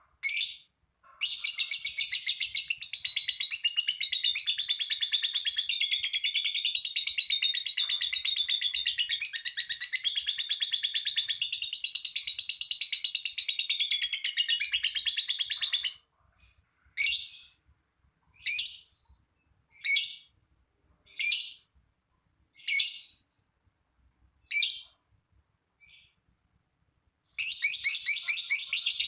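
Lovebird singing a long 'ngekek' chatter: a rapid, high-pitched trilling run lasting about fifteen seconds. It breaks into a string of single short calls about every second and a half, and a second rapid chatter starts near the end.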